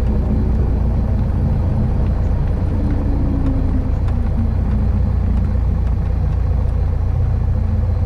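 Piper Warrior II's four-cylinder Lycoming engine running at low taxi power after landing, a steady low drone heard inside the cabin.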